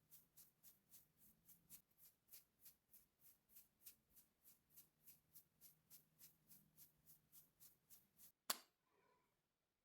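Faint makeup brush strokes, soft and airy, repeating evenly at about three a second. Near the end a single sharp click is heard, and then it goes quiet.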